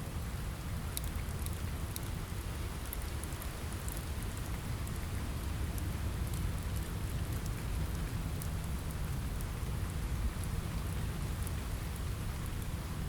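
Steady rain on a window with a low rumble underneath, and scattered sharp crackles from a wood fire.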